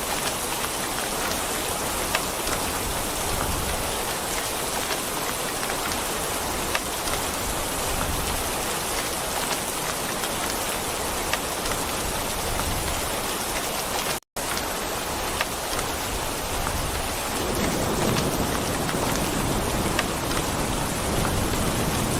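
Steady rain falling, with scattered sharper drop hits. The sound cuts out for an instant partway through, then a low thunder rumble builds toward the end.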